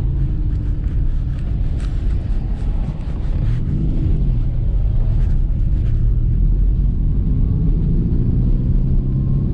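Lancia Flavia's flat-four engine running under way, with road noise. The sound dips briefly about three seconds in, then the engine pitch rises as the car picks up speed.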